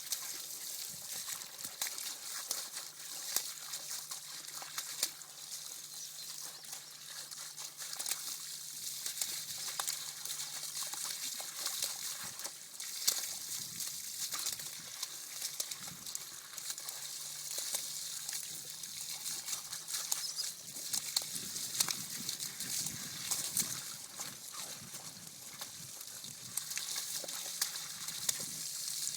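Garden hose spraying water: a steady hiss with constant splattering and splashing as the spray hits the ground and the playing puppies.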